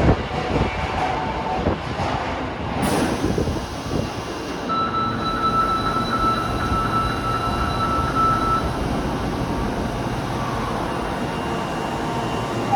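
Osaka Metro Tanimachi Line subway train running at the platform, its rumbling noise loudest at first and slowly easing off. A short hiss comes about three seconds in, and a steady high electronic tone sounds for about four seconds from about five seconds in.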